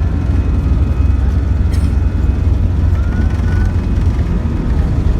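Loud, steady low rumble of a jumbo jet's engines and airframe, heard from inside the cabin during takeoff.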